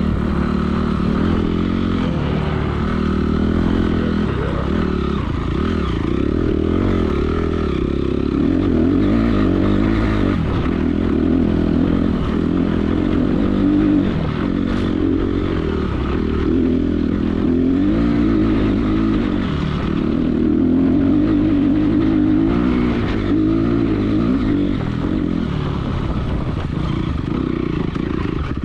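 Honda CRF250R's single-cylinder four-stroke engine being ridden off-road, its revs rising and falling again and again through the gears and throttle.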